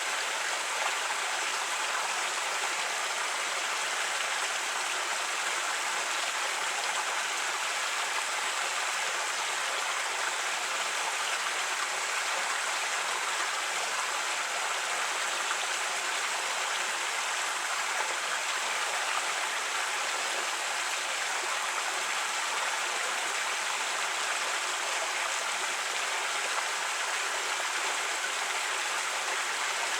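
A creek running: a steady, even rush of flowing water.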